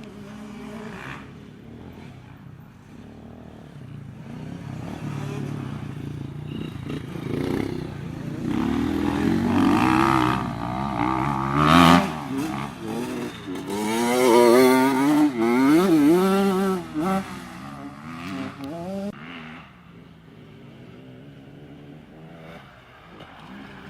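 Motocross bikes revving on a dirt track, the engine pitch rising and falling with throttle and gear changes. They grow louder toward the middle as they pass close, then drop back to a fainter engine drone for the last few seconds.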